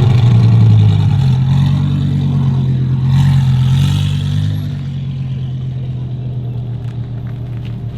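Car engine running loud with a deep steady drone, a short rev about three seconds in, then easing back to a quieter idle.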